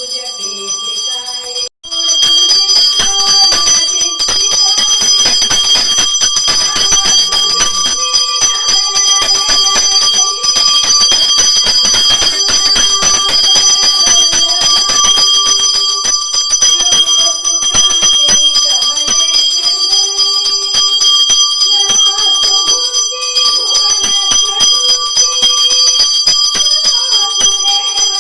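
Pooja hand bell rung continuously, its clapper striking rapidly and giving a steady high ringing, starting about two seconds in after a brief break. A devotional song plays underneath.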